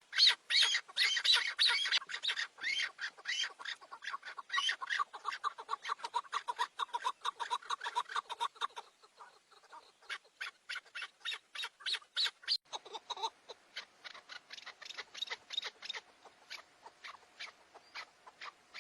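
Chukar partridges calling: a rapid run of short clucking notes, several a second, loudest in the first few seconds, breaking off briefly around the middle and then going on more quietly.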